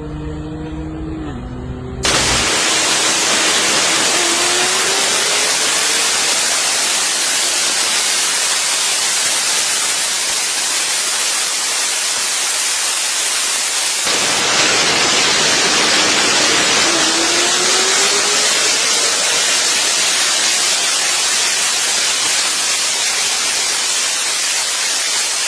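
A car engine winding down in pitch. About two seconds in, it gives way to a loud, steady hiss. Under the hiss, a faint, distant engine rises in pitch twice, like a car accelerating through a run.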